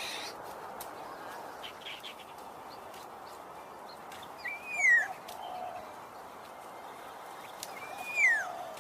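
A bird calling twice, about three and a half seconds apart, each call a short note that rises slightly and then slurs downward, over a steady background hiss.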